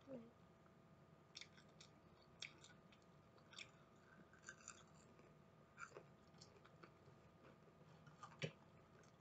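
Faint chewing of chicken strips, with scattered soft mouth clicks and one sharper click near the end.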